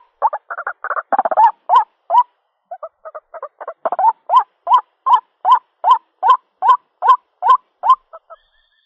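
White-breasted waterhen calling: a fast, jumbled run of notes, then a steady series of repeated calls at about two or three a second that stops shortly before the end. This is the ruak-ruak call used as a lure to draw in the bird's mate.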